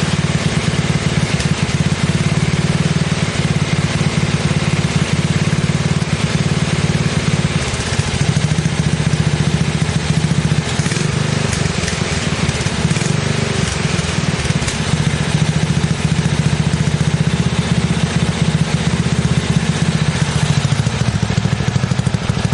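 BSA 441 single-cylinder four-stroke engine running steadily through a Campbell chopper muffler whose exit tube has been drilled with holes to cut its restriction, with an exhaust leak still unfixed.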